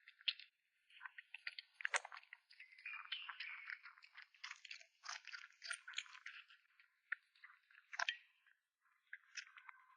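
A cat chewing and crunching food: a dense run of irregular wet crunches and bites with short pauses.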